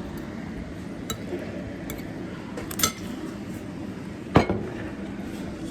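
Utensils clinking and clicking against a dish now and then while someone eats noodles, with a sharper knock about four and a half seconds in, over a steady low background hum.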